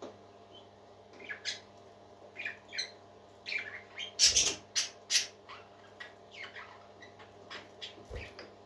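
Pet parakeets (budgerigars) chattering: a run of short chirps and harsh squawks, loudest and most crowded about four to five seconds in, over a faint steady hum.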